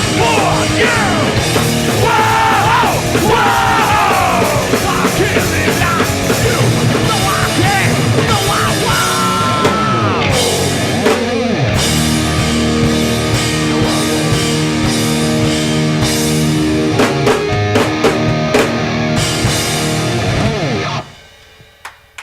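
Hardcore punk band playing live with drums and distorted electric guitar. A lead guitar solo bends up and down in pitch for the first half, then the band hammers held chords. The song ends abruptly about 21 seconds in, leaving a brief ring.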